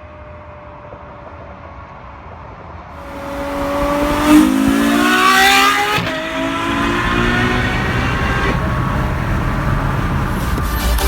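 A car accelerating: a faint steady hum, then about three seconds in it grows loud, rising in pitch, and holds at a steady high level.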